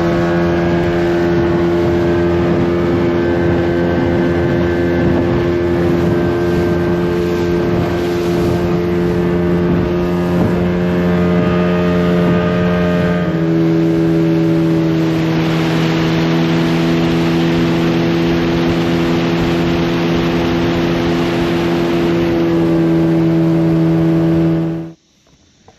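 Outboard motor on a small aluminium boat running steadily at cruising speed, with water and wind noise. The engine's pitch drops slightly about halfway through, and the sound cuts off suddenly near the end.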